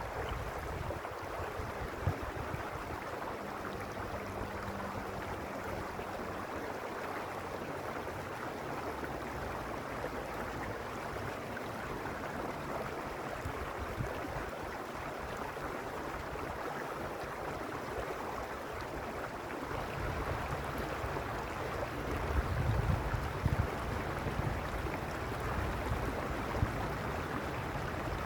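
Mountain stream rushing steadily over rocks, with gusts of wind rumbling on the microphone in the last third.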